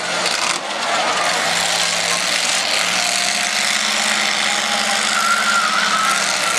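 Demolition derby cars' engines running and revving in a loud, dense din. A steady engine note comes in about three seconds in, and a high steady whine joins about five seconds in.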